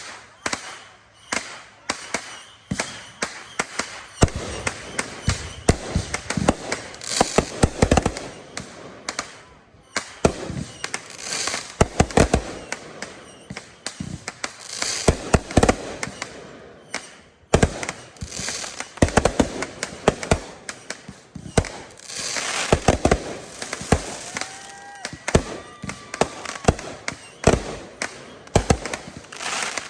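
Fireworks display of 500-gram cakes and 3-inch aerial shells: a continuous barrage of rapid bangs and crackling, with a few brief whistles near the end.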